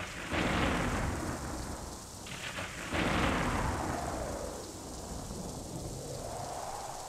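Rain falling with a steady hiss while thunder rolls twice, once just after the start and again about three seconds in, each roll fading slowly.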